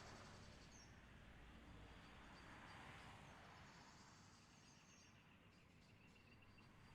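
Near silence: faint outdoor ambience with high, rapidly pulsing trills in short spells from small wild creatures, over a soft hiss. A lower pulsing trill starts about two thirds of the way through.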